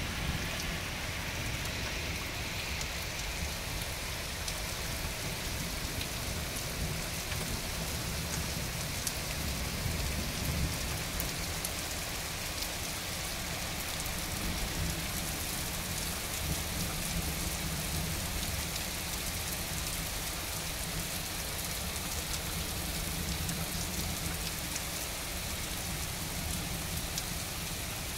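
Heavy rain falling steadily on grass, trees and a concrete path.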